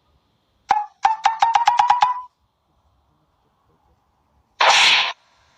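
Cartoon sound effects: a single tonal click, then a quick run of about ten beeping clicks rising slightly in pitch, and near the end a short whoosh.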